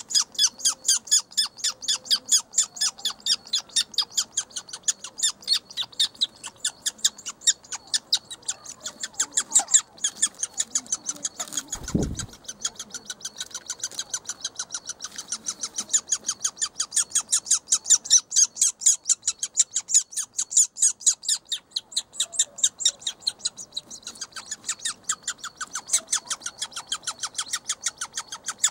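Woodpecker nestlings in the nest hole calling nonstop, a fast even chatter of short high calls, about four or five a second, the begging of chicks waiting to be fed. A single dull thump sounds about twelve seconds in.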